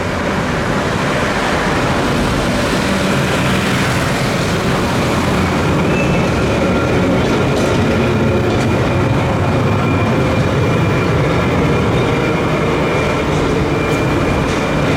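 Trieste–Opicina tram running on its track: a steady rumble of wheels on rails, with a faint high whine coming in partway through and a few light clicks.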